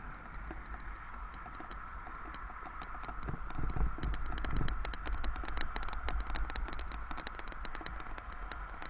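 Bicycle freewheel hub ticking rapidly while coasting, over a steady low rumble. The ticking grows louder and denser about four seconds in.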